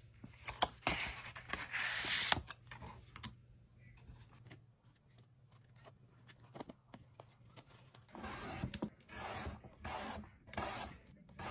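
Hand packing sounds of plastic and paper: rustling and rubbing, then a few light taps. Near the end comes a run of evenly spaced scratchy strokes.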